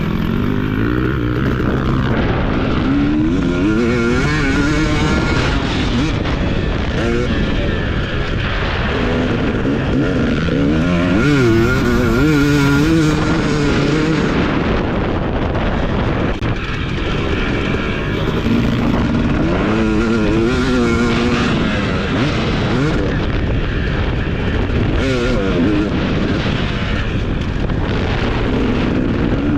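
TC250 motocross bike engine revving hard and backing off over and over, its pitch climbing and dropping with the throttle as it is ridden round the track.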